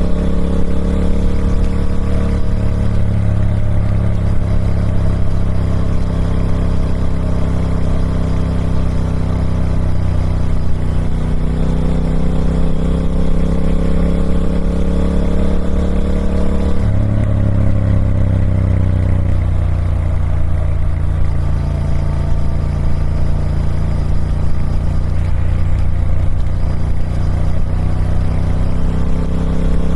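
Triumph Speed Twin 1200's parallel-twin engine running through its stock exhaust. Its pitch climbs slowly under throttle, drops sharply about halfway through and eases down, then rises again near the end.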